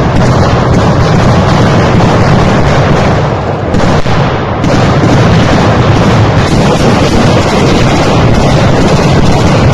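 Sustained, heavy automatic gunfire, so loud and dense that the shots run together and overload the microphone, easing briefly about four seconds in.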